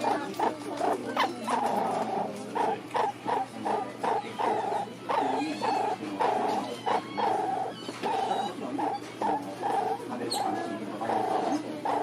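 A pet animal vocalizing in quick, repeated short sounds, about two or three a second, keeping up without a break.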